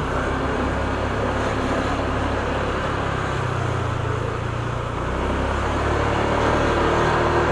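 Motorcycle engine running steadily while riding in traffic, with road and wind noise. The engine note shifts and the sound grows a little louder about five seconds in.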